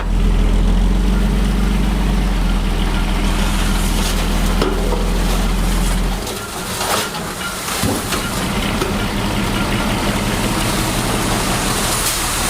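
Heavy diesel earthmoving machinery running, with a loud, steady low engine rumble that drops away about six seconds in, leaving a steadier, lighter mechanical noise.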